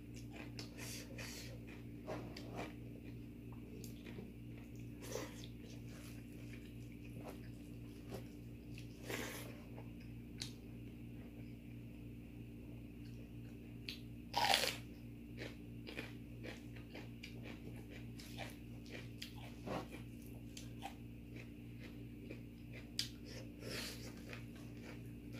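Close-miked chewing and crunching of food in irregular bites, over a steady low hum. One louder crunch comes about halfway through.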